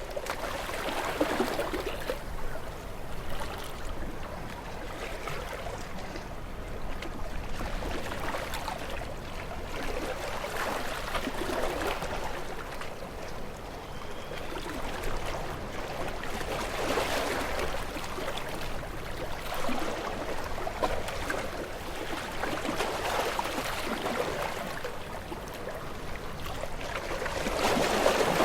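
Ocean waves washing in and receding, with swells that rise and fade every few seconds and a stronger surge near the end.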